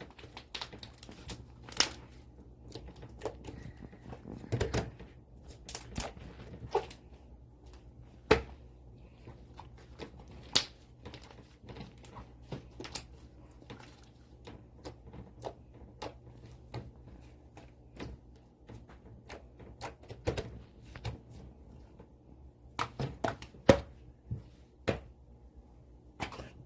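Blue slime being squeezed and worked by hand, giving irregular sharp clicks and pops, a few a second, with the loudest pops about 8 seconds in and near the end.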